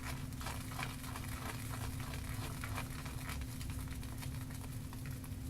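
Shaving brush swirling on a shaving-soap puck to load it with soap: a fine irregular crackle and patter of wet bristles working the soap.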